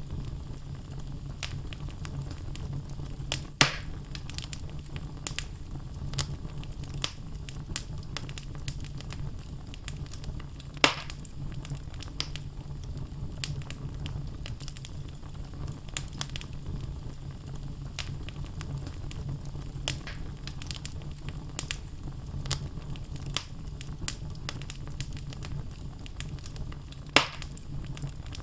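Wood logs burning in a fireplace: a steady low rumble of flame with constant small crackles and three louder pops from the burning wood.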